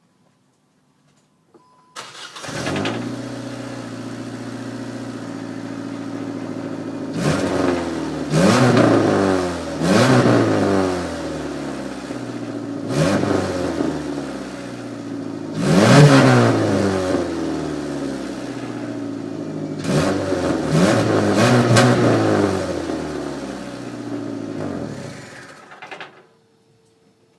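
2001 Saturn SC1's four-cylinder engine starting about two seconds in, idling and revved several times with the pitch climbing and falling back, then shut off near the end. Its exhaust is leaking where the muffler has been partly cut off.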